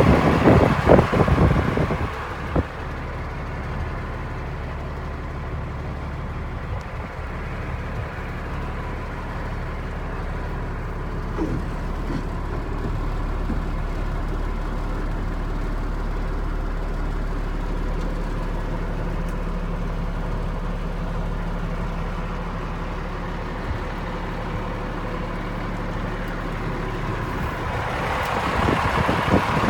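1989 Peterbilt 375 truck's diesel engine running steadily, louder and rougher for the first couple of seconds and rising again near the end.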